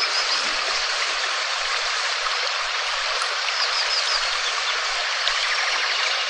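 Steady rain, an even hiss without a break, with a few faint high chirps near the start and again about two-thirds through.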